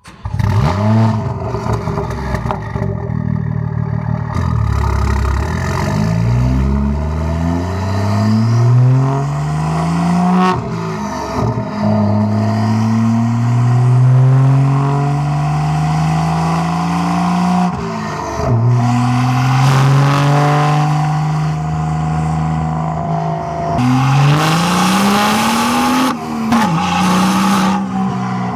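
BMW 335i/435i turbocharged straight-six running through a catless downpipe, MPPSK mid pipe and muffler-delete exhaust, accelerating hard. The engine note climbs, drops suddenly and climbs again four times as it shifts up through the gears.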